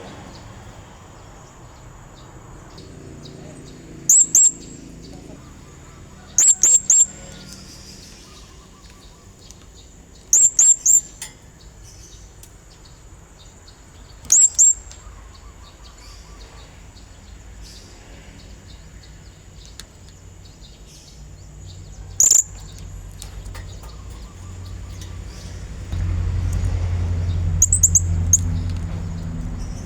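Blue-crowned hanging parrot (serindit) giving short, very high-pitched calls in quick clusters of two to four notes, repeated every few seconds: the male's call used as a lure to draw a rival. A low hum comes in near the end.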